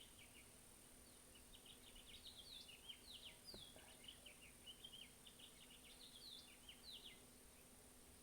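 Faint bird chirping: quick runs of short, falling chirps that stop about seven seconds in, over a steady faint electrical hum.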